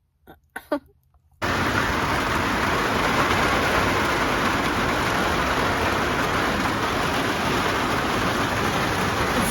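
Steady heavy rain. It starts abruptly about a second and a half in, after a few faint short sounds.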